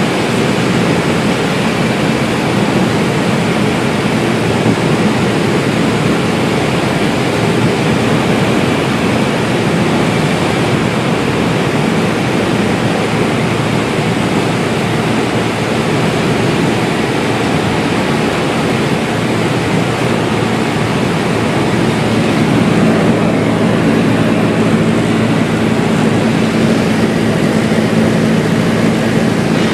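Cessna 172's four-cylinder engine and propeller running steadily under a heavy rush of airflow. About three-quarters of the way through, the engine note grows a little louder and clearer.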